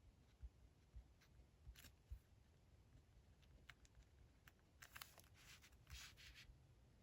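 Faint desk-work sounds of paper and stationery being handled: scattered light taps and clicks, then a few short rustles of paper about five to six seconds in.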